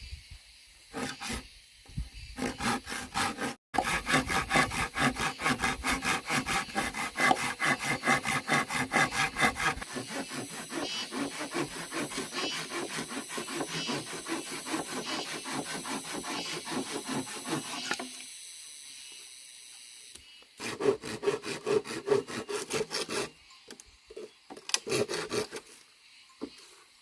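Hand saw cutting through wood in rapid, even back-and-forth strokes. The strokes stop about two-thirds of the way through, then come back in two short bursts near the end.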